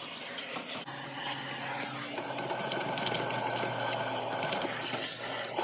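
Vacuum cleaner running while cleaning debris out of a dryer. A steadier whine sets in about two seconds in.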